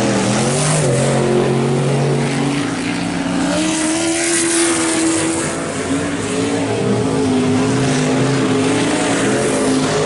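Engines of several race trucks running together in a race, their overlapping engine notes rising and falling as they lap the track.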